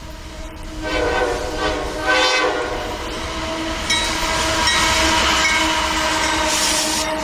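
Freight locomotive's air horn sounding: two blasts about a second in, then a long held blast, over the clatter of the approaching train.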